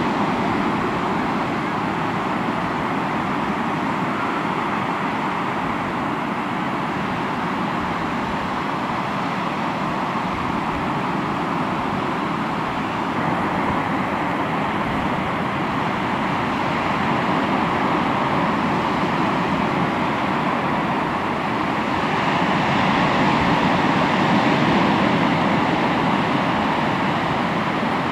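Sea waves breaking and washing onto the shore: a continuous rush of surf that swells and ebbs slowly, growing louder a little before the end.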